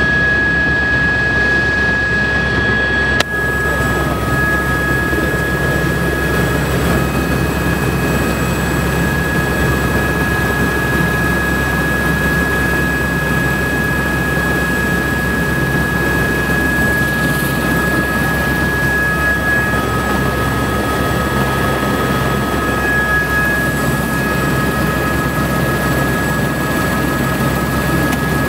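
Helicopter running steadily: a steady high whine over a low drone. A short click sounds about three seconds in.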